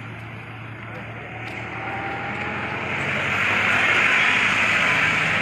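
A motor vehicle passing on the road, its engine and tyre noise swelling to a peak about four seconds in, over a steady low hum.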